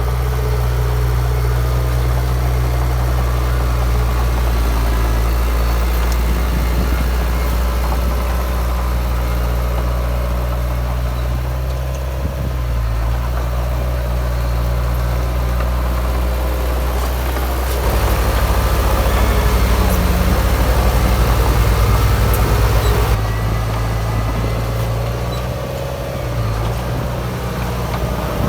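Heavy diesel engine of earthmoving machinery running steadily under load. About two-thirds of the way through, its pitch shifts and it grows louder for several seconds, then eases back.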